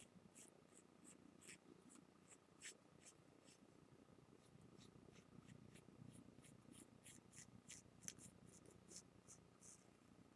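Faint, soft scratching of a cotton swab rubbed along the repaired seam of a plate, wiping off excess top-layer lacquer, in short irregular strokes a few times a second.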